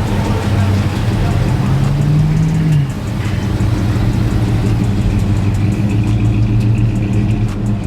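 Car engine running, with a short rev that rises and then drops off about three seconds in, over a steady low rumble of other vehicles.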